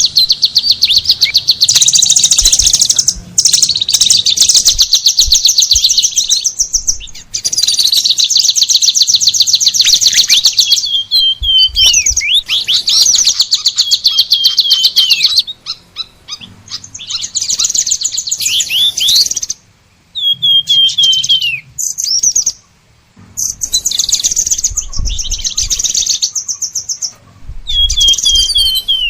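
Songbird singing: long runs of rapid, high-pitched trilled chirps, broken by a few short pauses and several quick downward-sweeping whistled notes.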